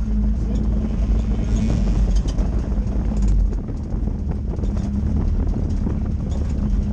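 Race car engine running at low, steady revs with a deep rumble.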